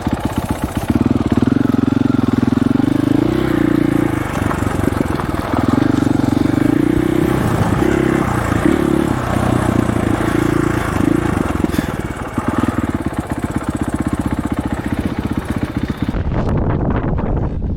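Dirt bike engine running as the bike is ridden, its pitch rising and falling with the throttle. Near the end the sound turns muffled.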